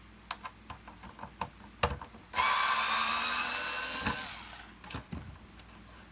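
A few small clicks of parts being handled, then a cordless electric screwdriver runs for about two seconds with a whine that sinks slightly in pitch before fading, taking out a screw on the vacuum's mains cable holder.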